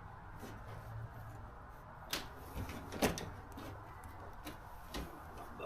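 A few sharp knocks and clunks of a piece being lifted and shifted into line, the loudest about three seconds in, over a low steady background.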